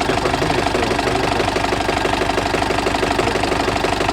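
Diesel engine idling steadily with a fast, even clatter, carrying the knock that has appeared in the engine.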